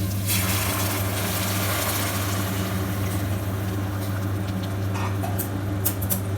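Hot water poured into a pan of fried onion and tomato, hissing and sizzling as it hits, over a steady low hum. A few light clicks near the end.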